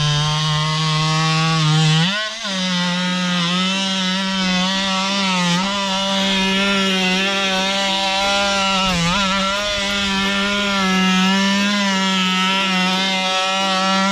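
Worx WX696 cordless oscillating multi-tool running with its blade cutting into firewood: a steady pitched buzz that steps up in pitch about two seconds in and sags briefly a few times as the blade bites into the wood.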